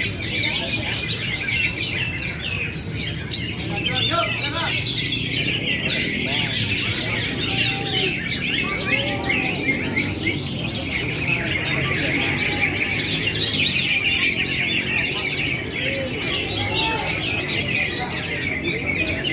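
Many caged songbirds singing at once in a dense, unbroken chorus of quick chirps and trills, over a steady murmur of crowd voices.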